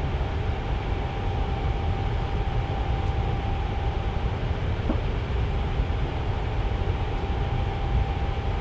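Tower fan running steadily: a low airflow rush with a faint steady hum above it, and one faint tick about five seconds in.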